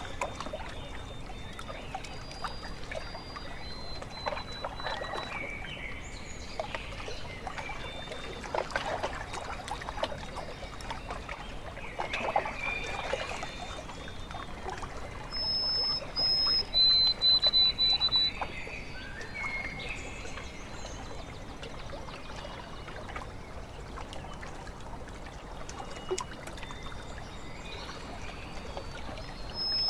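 Small waves lapping and trickling at a lakeshore, with songbirds calling in short, clear, high notes. About halfway through, a bird sings a louder run of high notes.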